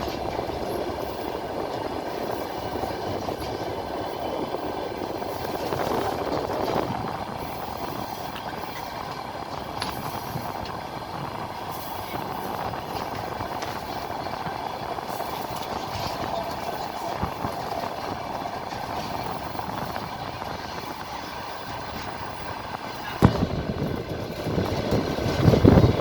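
Passenger train carriage running along the line, heard from inside at the window: a steady rumble of wheels on the rails. About 23 seconds in it turns louder and rougher, with a heavy, uneven low rumble.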